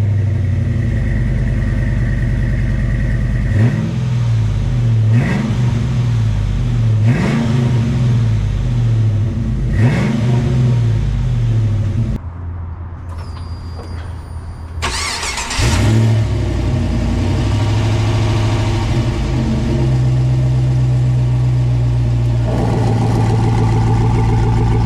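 LS V8 in a Toyota FJ62 Land Cruiser running through a new exhaust with high-flow cats and a Flowmaster muffler, revved four times in quick succession over the first ten seconds. After a few quieter seconds it is loud again, idling steadily, and its tone changes near the end.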